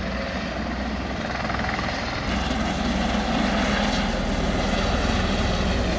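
Helicopter flying, its rotor and engine noise steady, growing louder about two seconds in.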